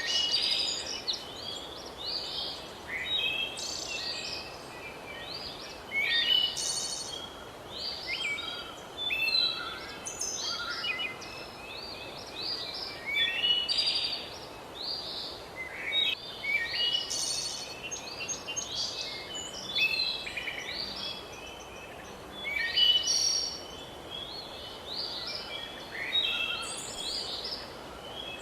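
Several birds singing at once: a busy chorus of short chirps and trills over a steady background hiss.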